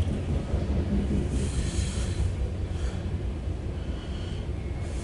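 Loaded coal train rolling past: a steady low rumble of freight cars on the rails, with a short hiss about a second and a half in.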